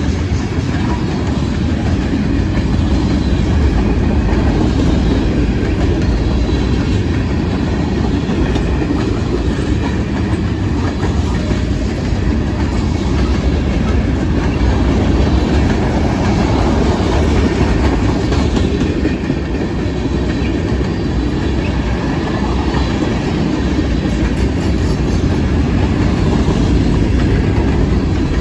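Freight cars of a mixed freight train rolling steadily past: tank cars, boxcars and covered hoppers, their steel wheels on the rails giving a continuous low rumble.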